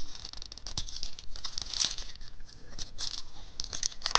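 Plastic candy wrapper crinkling and tearing as it is opened by hand, a quick run of crackles.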